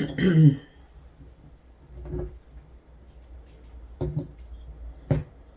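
A brief pitched sound falling in pitch at the start, then a few separate knocks and clicks of craft materials being handled on a table, the sharpest near the end.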